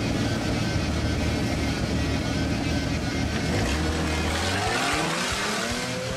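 Off-road Jeep engine running steadily at idle, then revving with a rising pitch about four and a half seconds in.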